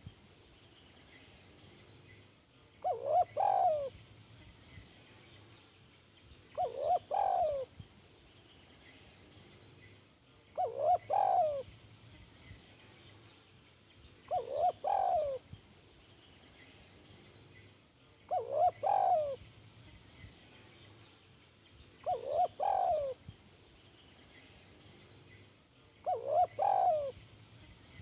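Spotted dove (tekukur) cooing, a caged bird of the 'kuk 1' song type that keepers prize. A short phrase of a few coos repeats about every four seconds, seven times.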